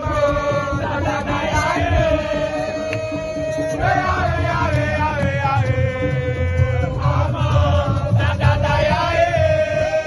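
A voice singing long held notes over music with a heavy low beat, with a crowd chanting along.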